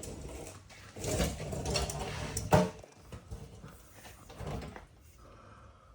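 Hand tools and suspension parts clattering and scraping during work on a car's front suspension, with one sharp knock about two and a half seconds in.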